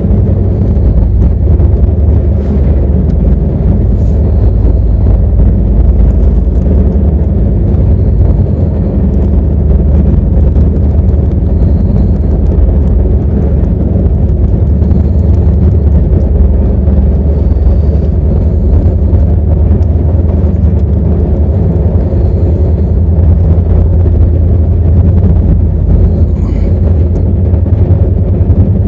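Loud, steady low rumble of a vehicle in motion, heard from on board.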